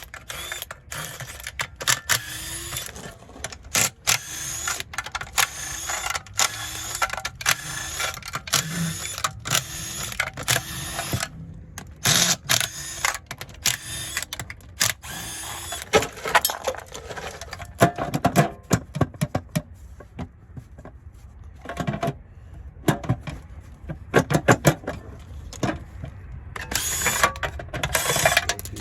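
Hand tools working on metal: rapid, repeated clicks and knocks for roughly the first eleven seconds, then scattered knocks and clanks.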